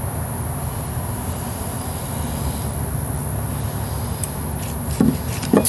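Steady low rumble with a faint high-pitched whine over it, and two short knocks near the end.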